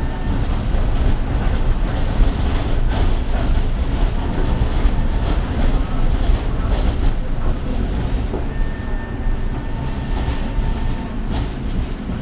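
Tatra T3 tram running along the track: a steady heavy low rumble, with several sharp clicks and knocks from the wheels on the rails.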